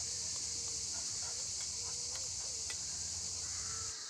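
Cicadas chirring in a steady high-pitched chorus. A low hum beneath drops away near the end, and a few sharp clicks sound through the middle.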